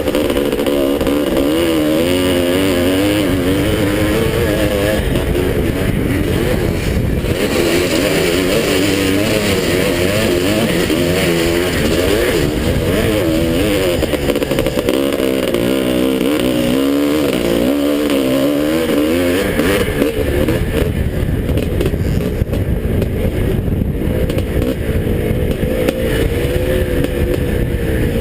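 Motocross bike engine under hard riding, revving up and dropping back again and again as the rider accelerates and shifts through the gears.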